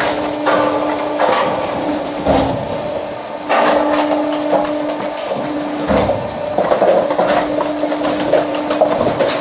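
HSM Pinosa FAM400 firewood machine running with mechanical clatter and a steady motor hum that stops and restarts a few times. There are two sharp knocks, about two seconds in and about six seconds in.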